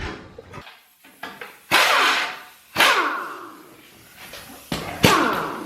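Metal parts clanking while being handled in a workshop: three loud clanks, each ringing briefly, with lighter knocks between them.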